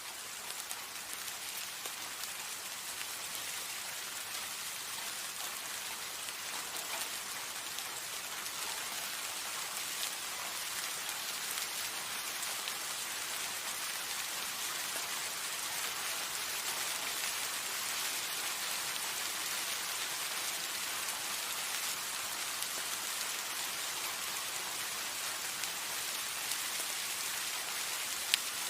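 Steady rain falling: an even hiss with scattered drop ticks, swelling slightly louder over the first part. There is one sharp tick near the end.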